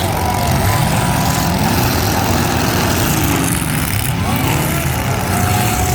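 Demolition-derby trucks' engines running and revving, their pitch rising and falling, under a steady loud wash of noise.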